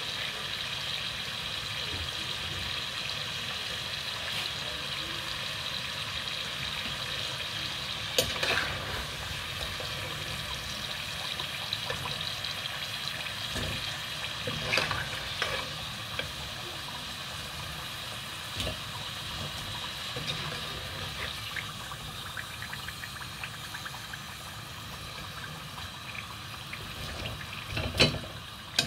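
Plantain slices frying in a pot of hot oil with a steady sizzle. A few sharp knocks of the metal slotted spoon against the pot or plate come about eight and fifteen seconds in, with the loudest one near the end.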